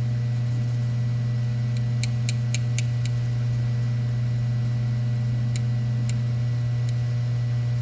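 A steady low mechanical hum at an even level, with a quick run of light clicks about two to three seconds in and two more just before the six-second mark.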